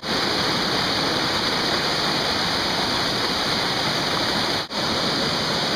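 Steady rushing of water from a waterfall, with a brief break about four and a half seconds in.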